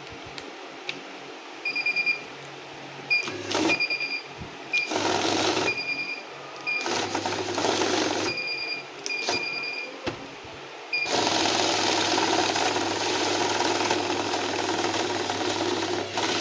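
Electric banknote counting machine feeding notes in short runs with a motor hum, with short high beeps between the runs. About two-thirds of the way in, it starts one long run that goes on for about five seconds.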